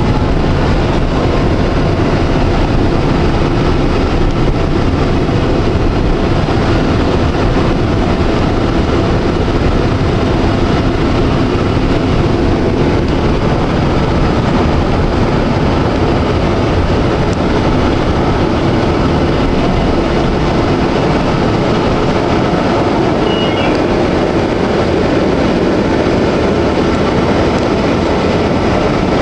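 Electric tram running along its rails: a steady rumble of wheels and running gear with an even hiss and no breaks.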